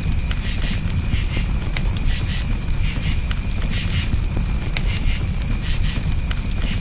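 Campfire crackling, with scattered sharp pops over a low steady rumble. Crickets chirp in repeated pulsed groups throughout.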